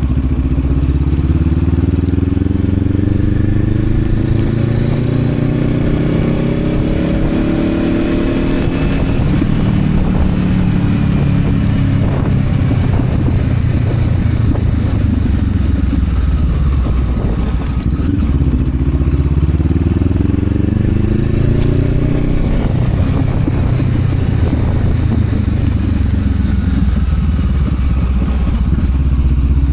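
Honda CB500X parallel-twin engine running under way. Its pitch climbs steadily through the first several seconds, eases off around ten seconds, and climbs again around eighteen to twenty seconds, over a steady rush of road and wind noise.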